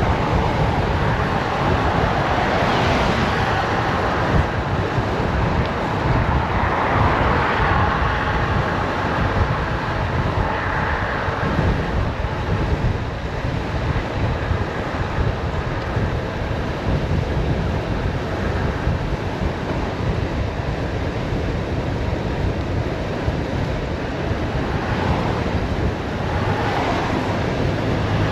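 Wind rushing over the microphone of a bicycle speeding downhill: a steady low roar that swells and fades a few times, once early on, again a few seconds later and near the end.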